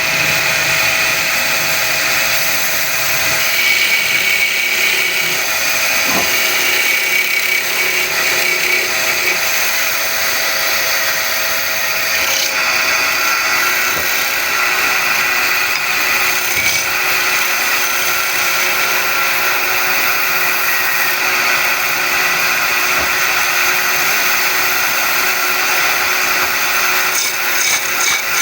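Wood lathe running with a steady motor whine while a wooden bed leg is turned, the tool on the spinning wood adding a continuous hiss.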